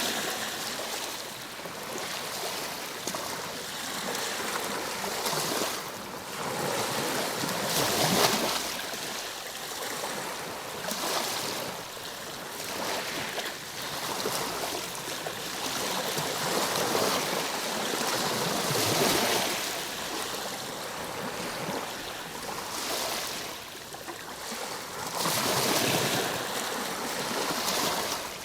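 Ocean waves breaking and washing on a shore: a continuous rushing hiss that swells with each wave every few seconds, loudest about eight seconds in and again near the end.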